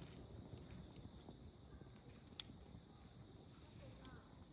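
Wood campfire burning softly, with faint crackling and one sharp pop of the firewood about halfway through. Insects chirp in a steady pulsing rhythm behind it.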